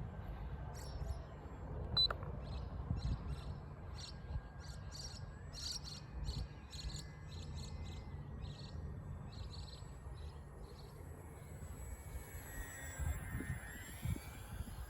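Wind rumbling on the microphone while a bird chirps repeatedly in short high notes for most of the first nine seconds. A faint thin high whine runs underneath and rises in pitch near the end.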